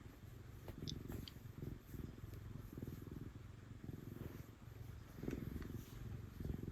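Domestic cat purring, a low, fast-pulsing rumble that swells and eases with each breath.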